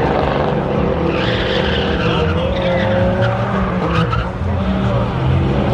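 Loud engine running, with tire squeal joining in about a second in.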